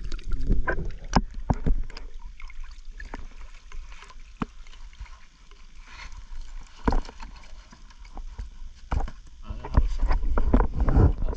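Water sloshing and splashing around a small boat, with scattered irregular knocks and low rumbling gusts of wind on the microphone.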